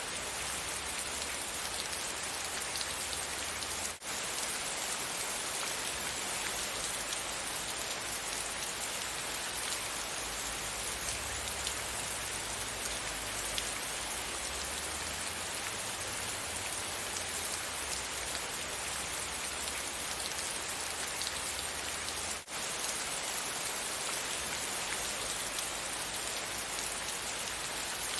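Steady rain falling, an even hiss of many fine drops. The sound dips out for an instant twice, about four seconds in and again near twenty-two seconds.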